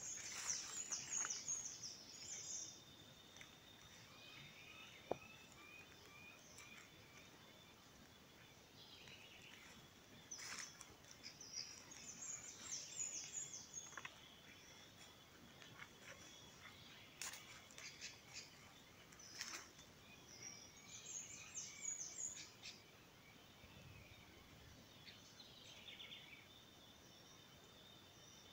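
Faint birdsong: a high, quick song phrase comes three times, roughly nine seconds apart, with a few lower chirps in between. Under it runs a faint steady high tone, with scattered soft clicks.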